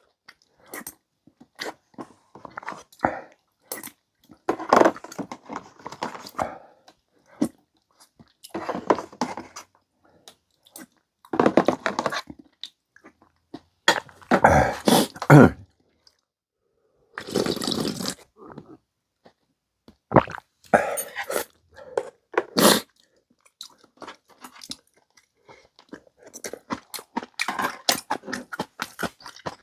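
Close-up eating sounds: chewing of clam noodle soup in irregular bursts every couple of seconds, with small sharp clicks in between.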